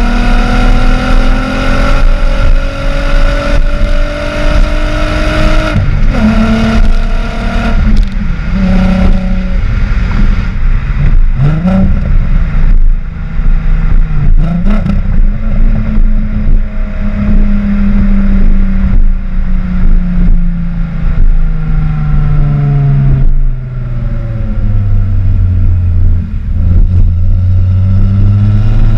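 12-valve VR6 engine of a Volkswagen GTI heard through a Techtonics cat-back exhaust with a Magnaflow muffler, pulling through the gears. The pitch climbs and drops sharply several times as it shifts, then falls steadily as the car slows, and starts climbing again near the end.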